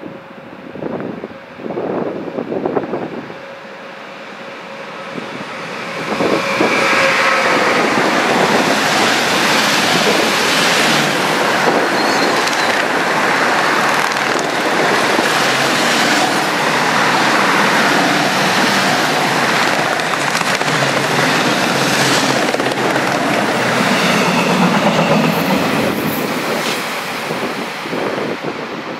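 A train passing close by on the main line. It grows louder over the first few seconds, then comes a steady loud rush of wheels on rails with clicks and clatter for about twenty seconds, easing slightly near the end.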